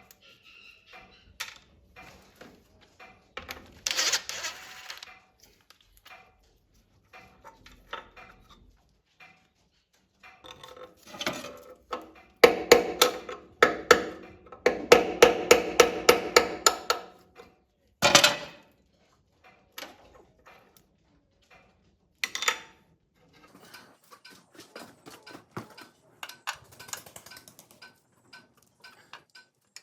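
Clinks and knocks of metal tools and parts being handled, with a quick run of hammer taps on ringing metal about halfway through and single sharp knocks shortly after.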